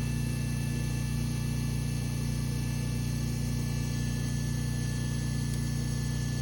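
An engine running at a constant speed, a steady even hum with no change in revs.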